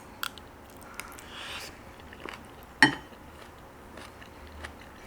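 Eating sounds: chewing and crunching a mouthful topped with a pickle, with a few small clicks and one sharp click a little before the three-second mark.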